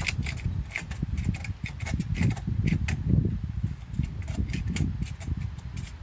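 Handsaw cutting into the trunk of a dead tree, a series of short, uneven rasping strokes over a low rumble.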